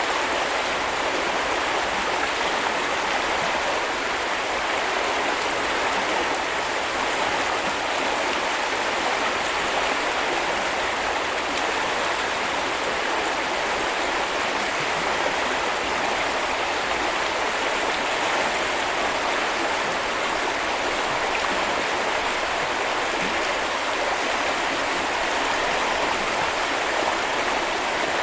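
Steady rush of a small river or brook flowing over stones, an even water noise with no breaks.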